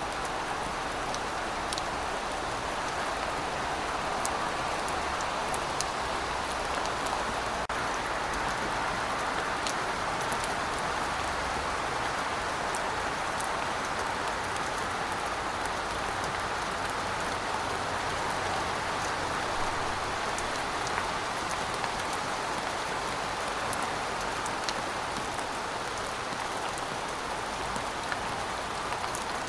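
Heavy rain falling steadily, a dense even hiss of rainfall with scattered sharper drop ticks on top.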